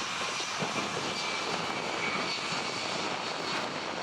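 Aircraft engine noise: a steady rushing sound with a faint high whine through the middle of it.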